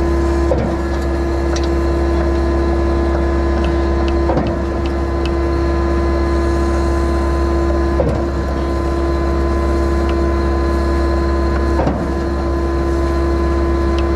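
Skid-steer engine and the hydraulics of the concrete pump it drives running steadily with a constant hum, and a short knock about every four seconds.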